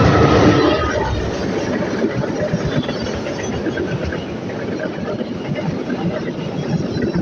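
Train running past, a steady rumble and clatter of its wheels on the rails. A thin high tone fades out about a second in.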